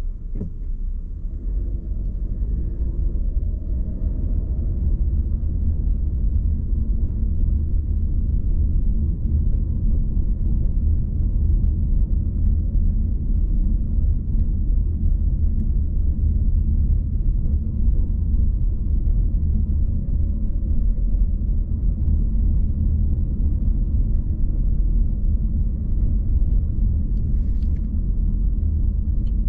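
A car driving, with a steady low road and engine rumble and a faint engine tone that shifts in pitch a few seconds in.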